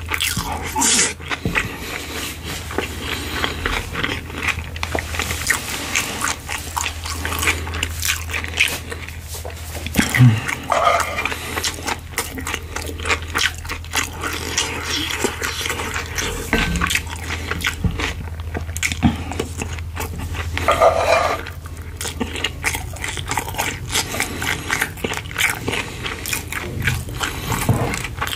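Close-miked chewing of kimchi pork-belly fried rice: wet mouth clicks and soft crunches, many small sounds in quick succession.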